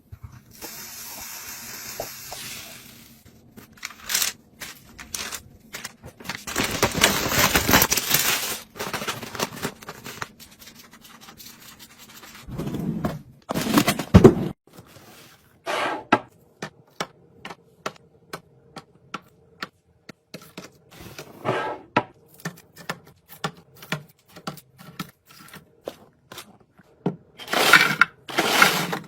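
Packaged snacks being handled and put into a mini fridge: plastic packaging rustling and crackling in several stretches, with many small clicks and knocks as items are set down, and one louder knock about fourteen seconds in.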